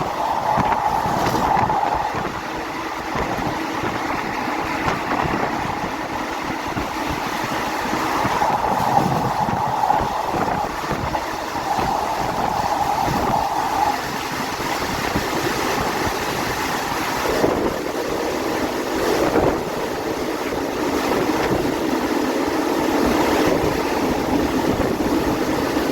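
Moving passenger train heard from aboard: a steady rumble of wheels on rails, with a few short clicks scattered through it.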